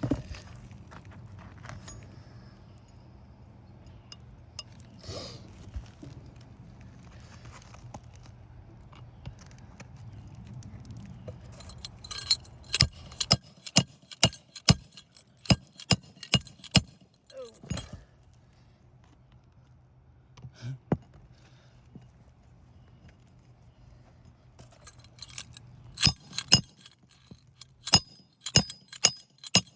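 Hammer blows on roofing nails and metal, sharp ringing clinks in two quick runs: about a dozen strikes in the middle and another handful near the end, with a low steady hum before the first run.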